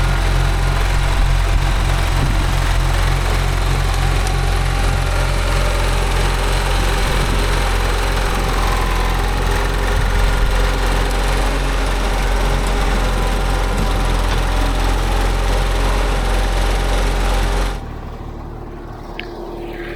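Allis-Chalmers HD5 bulldozer's GM 3-71 two-stroke diesel running steadily with a loud, pulsing low drone. Near the end the sound cuts off abruptly, leaving a quieter hum.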